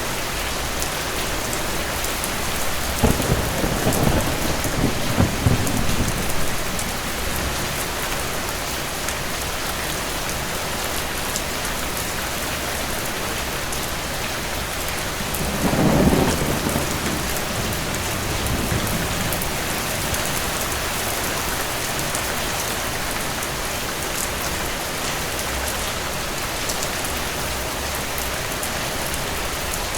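Steady rain falling, with two rolls of thunder: one a few seconds in, and a louder one about halfway through.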